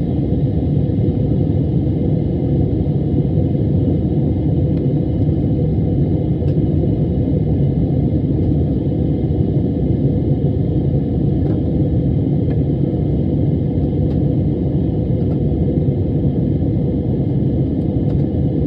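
Steady roar of a jet airliner heard from inside the passenger cabin: engine and airflow noise, an even low rumble with a faint steady whine above it.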